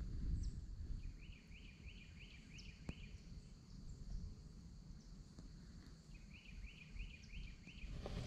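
Faint bird call: a quick run of short rising notes, about three a second, heard twice, with a single light click in between.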